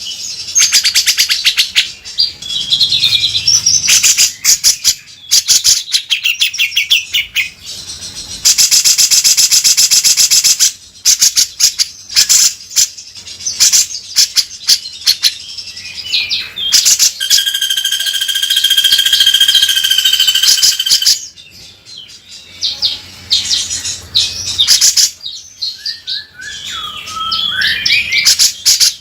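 Cucak jenggot (grey-cheeked bulbul) singing hard in a harsh, rasping style: loud runs of fast rattling trills and chatter, a steady held whistle about two-thirds of the way through, and gliding notes near the end.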